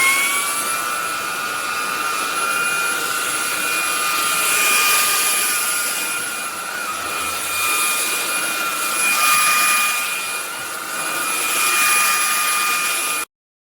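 Cordless stick vacuum's motor running with a steady high whine over a rush of air that swells and fades every few seconds, cutting off suddenly near the end.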